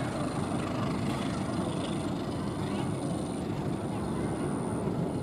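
A passenger train rolling away over the rails: a steady low rumble of wheels and running gear.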